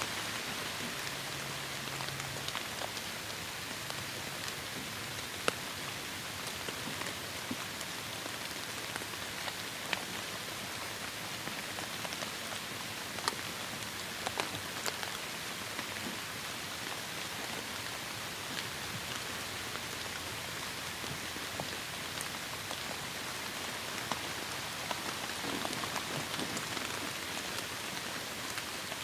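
Steady heavy rain: a dense even hiss with the sharp ticks of single drops striking a surface scattered through it.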